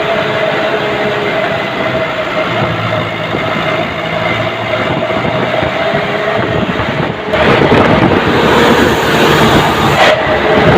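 Army truck running on the road, heard from aboard: a steady engine and road rumble that gets louder about seven seconds in.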